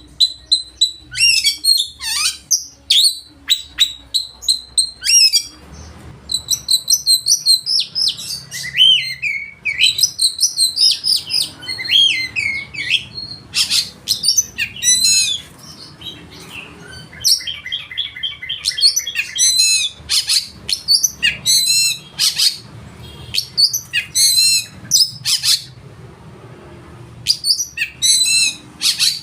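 Oriental magpie-robin (kacer) singing loudly: long runs of fast, varied whistles and chattering phrases, broken by short pauses. The song includes mimicked material.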